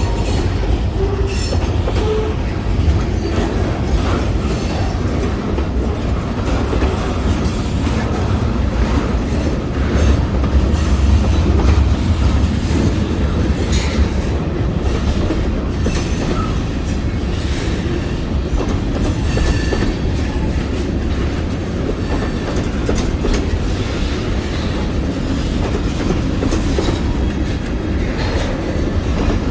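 Freight train rolling past: a steady heavy rumble of the cars, with wheels clacking over rail joints and a few brief wheel squeals.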